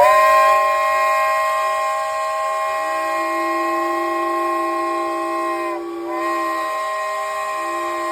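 Several steam whistles blowing together in one sustained, steady chord. A lower note joins about three seconds in, and the whole chord dips briefly about six seconds in before sounding again.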